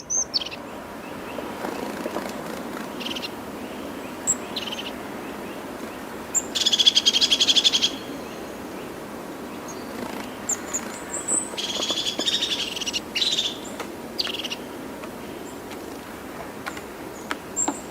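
Birds calling: short high chirps and two rapid trills, each about a second and a half long, over a steady background hiss.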